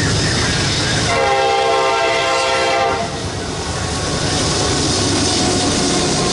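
Train horn sounding one blast of about two seconds, over the steady noise of a moving train.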